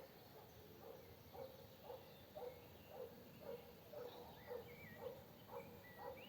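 Faint animal calls repeating about twice a second, with faint chirps higher above.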